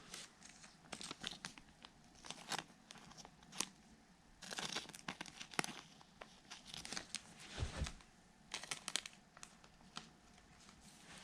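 Faint crinkling and tearing of a foil Topps Heritage card-pack wrapper, with quick clicks and rustles of the cards being handled.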